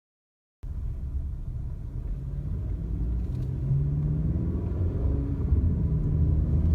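Wind buffeting the microphone: a low rumble that cuts in suddenly about half a second in and grows slightly louder.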